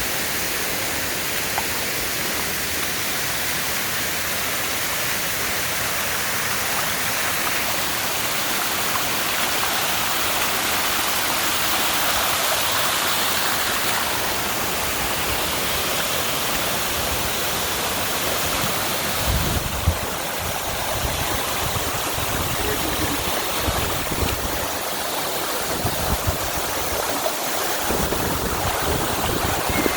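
Mele Cascades waterfall rushing steadily. From about twenty seconds in, irregular low thumps and bumps sound under the rush.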